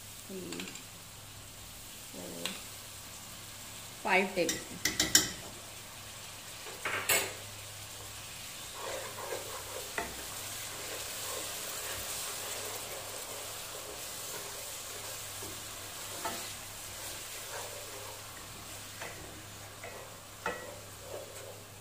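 A wooden spoon stirs yogurt into sizzling masala in a pot, the oil hissing and spitting. Near the start a metal spoon clinks sharply against the pot a few times as the yogurt goes in. The sizzling grows louder about eight seconds in as the yogurt is worked into the hot oil.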